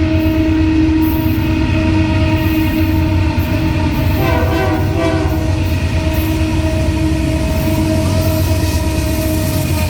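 Freight train passing close by, its Canadian National diesel locomotive and cars giving a steady heavy rumble with a held engine tone. A brief horn-like blast sounds about four seconds in.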